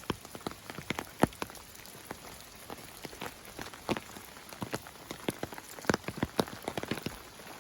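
Heavy rain, with large individual drops striking a hard surface at an irregular pace, several a second, over a faint hiss.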